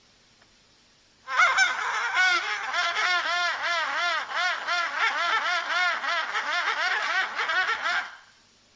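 A flock of waterfowl calling, many overlapping honking calls a second. The calls start suddenly about a second in and stop shortly before the end.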